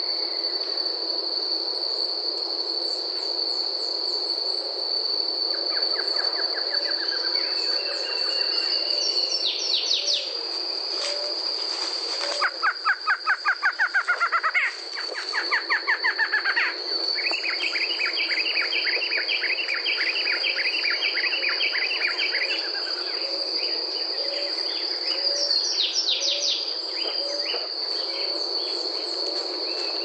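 Barred antshrike singing rapid series of nasal notes, loudest about twelve and fifteen seconds in, with other birds calling. A steady high insect buzz runs underneath.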